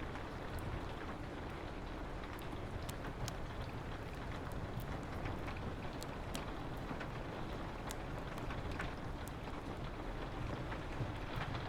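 Steady rain falling on a window, mixed with a wood fire crackling: scattered sharp pops and snaps over an even hiss and low rumble.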